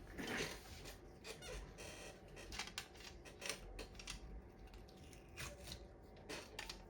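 Faint, irregular small clicks, taps and squeaks of equipment being handled on a repair bench.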